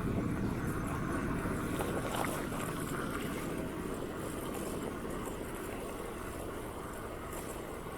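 Steady low rumble of wind buffeting the microphone, as when riding a bicycle.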